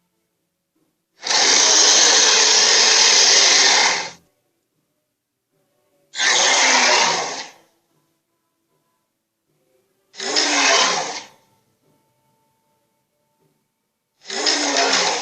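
Red Claw's dinosaur screech sound effect, played four times: a long screech of about three seconds, then three shorter ones of about a second each, with silence between.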